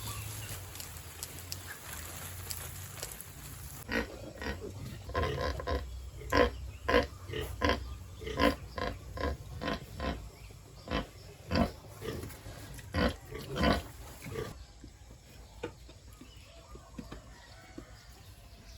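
Pigs grunting in a quick series of short calls, about two a second, that stops after about ten seconds. Before the calls start, a steady hiss.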